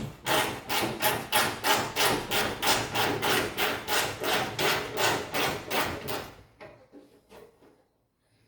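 Hand ratchet working a 10 mm fender bolt loose on a 2011 Jeep Grand Cherokee, quick even back-and-forth strokes with ratcheting clicks, about four a second. The strokes stop about six seconds in, followed by a few faint taps.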